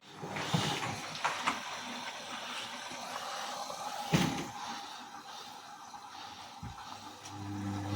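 Bauknecht WAS 1400 washing machine pausing in its wash cycle: the drum motor stops, water sloshes and trickles with a few clicks and knocks, and the motor starts up again near the end.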